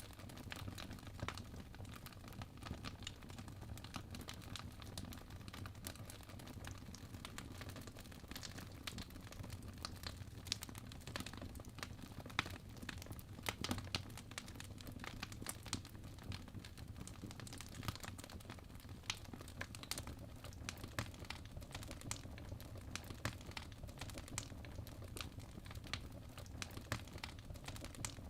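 Wood fire of burning logs crackling: irregular sharp pops and snaps, a few louder ones, over a steady low rumble of the flames.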